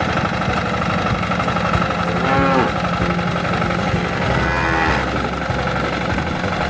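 Tractor engine running steadily with an even chugging pulse, and two drawn-out livestock calls over it, about two and a half and four and a half seconds in.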